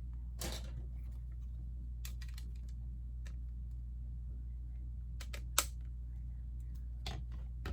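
LEGO plastic pieces clicking and tapping as they are handled: a few scattered sharp clicks in small clusters, the loudest a little past halfway, over a steady low hum.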